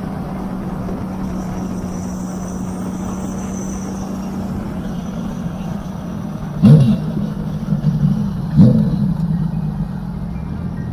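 Honda CBX 1047cc inline-six engine, exhaling through a custom 6-into-2 stainless steel exhaust, idling steadily. It is revved in two quick throttle blips, about seven and nine seconds in, each climbing sharply and dropping back to idle.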